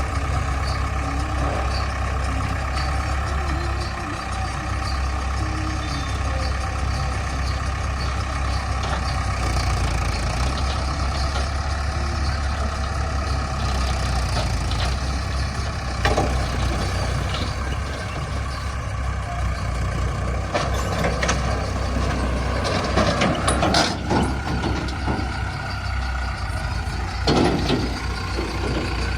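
Heavy diesel machinery engines running steadily with a deep hum, with a few sharp clanks about halfway through and again near the end.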